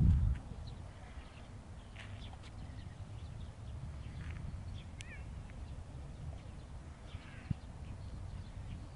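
Scattered short bird chirps, one clearer zig-zag call about halfway through, over a low steady outdoor rumble.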